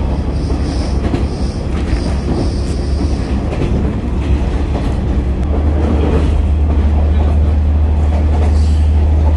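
Onboard running sound of the Futatsuboshi 4047 diesel railcar: a steady low engine drone with the rumble and clatter of wheels on the rails. A faint high wheel squeal is heard during the first few seconds.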